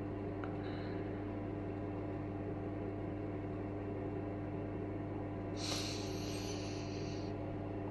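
Steady low electrical hum, with a brief breathy hiss about six seconds in.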